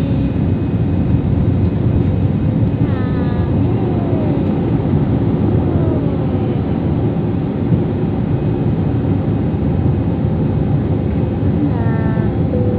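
Steady loud cabin noise of a passenger airplane, engines and airflow running evenly, with a brief faint voice about three seconds in and again near the end.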